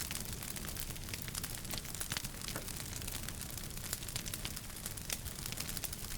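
Wood fire burning in a fireplace: a continuous irregular crackle of many small sharp pops over a steady low rumble.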